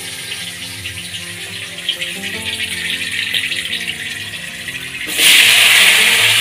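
Cut potatoes tipped into hot oil with frying onions in a steel kadhai, setting off a sudden loud sizzle about five seconds in that keeps going, over background music.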